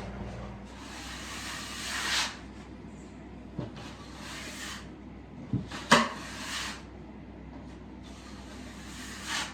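Hand sanding of dried plaster joint compound on plasterboard joints: four long rasping strokes of the sanding pad, with a sharp knock about six seconds in.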